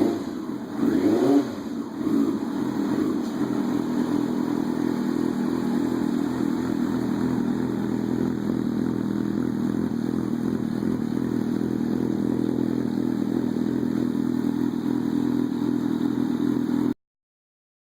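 Yamaha R6 inline-four engine running through a Yoshimura aftermarket exhaust: a couple of quick throttle blips in the first two seconds, then a steady idle until the sound cuts off suddenly near the end.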